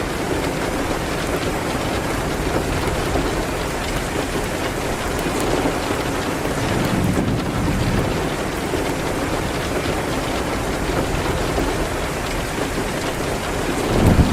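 Steady rain hitting a window, with a fireplace crackling faintly through it. A low rumble swells near the end.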